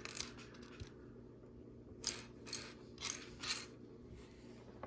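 Loose plastic LEGO pieces clicking and rattling as they are sifted through by hand, in a few short bursts, most of them after about two seconds.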